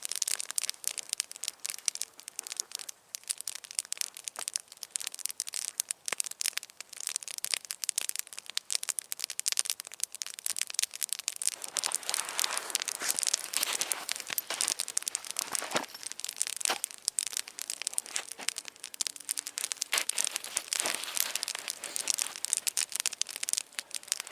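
Campfire crackling: a dense, irregular run of small snaps.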